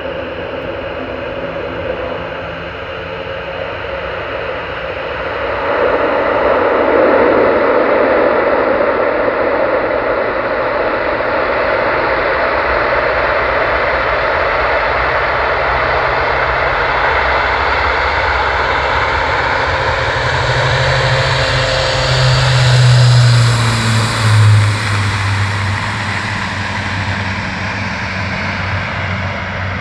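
Airbus A400M military transport's four turboprop engines running. The engine noise swells about six seconds in and is loudest, with a deep propeller drone, a little past twenty seconds, then eases slightly.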